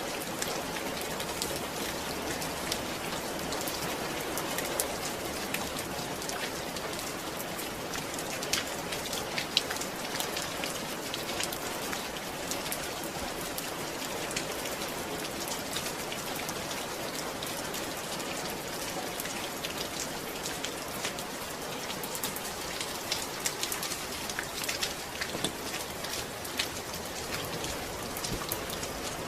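Steady rain falling, with a constant hiss and many individual drops pattering on a surface.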